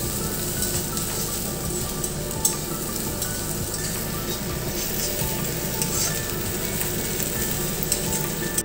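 Chopped food frying in oil in an iron kadai, with a steady sizzle throughout. It is stirred with a spatula, and there are occasional sharp scrapes and taps against the pan.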